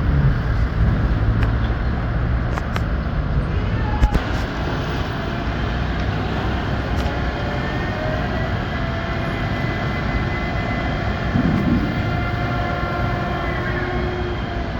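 Heavy track-repair machinery running with a steady low rumble, with a sharp metallic knock about four seconds in and faint high squeal-like tones in the second half.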